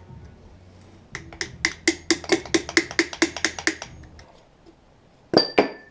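A quick, even run of about a dozen sharp metallic clicks, roughly five a second, from hand tools working on the car's rear hub, then a single loud metal clank near the end.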